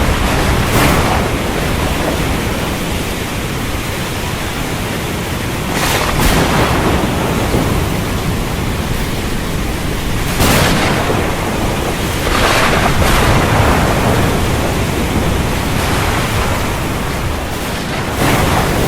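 Storm at sea: a steady rush of wind and surf, swelling louder several times as waves break or gusts pass.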